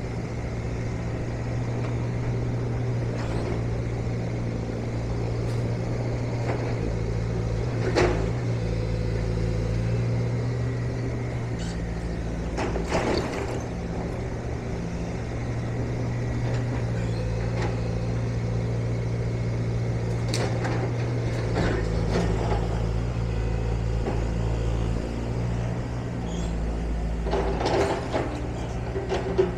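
A steady low mechanical hum, like a running engine, with a few short knocks and clicks scattered through it, the sharpest about eight seconds in.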